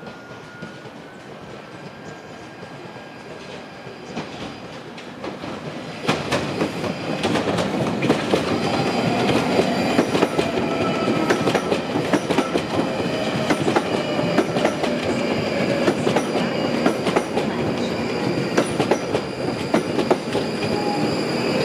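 London Underground 1995 Tube Stock train running over points and past at close range. About six seconds in it gets much louder, with rapid clicking of wheels over rail joints and a thin steady whine over it.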